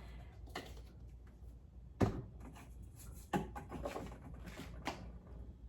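A few separate knocks and clatters of kitchen containers and utensils being handled while meat is seasoned, the loudest about two seconds in and a quick cluster a little after three seconds.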